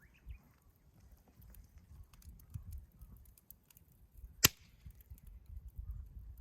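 Wood fire crackling with scattered small ticks, and one loud sharp pop about four and a half seconds in.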